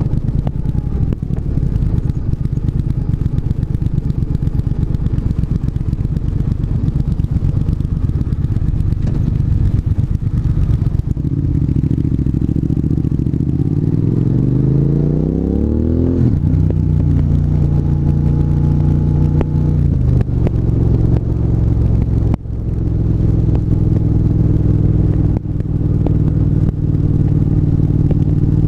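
Triumph 1200 cc parallel-twin motorcycle engine under way. Its note runs steadily, then rises as the bike accelerates through a gear about halfway through and drops sharply at an upshift. It steps down again soon after and settles into a steady cruise.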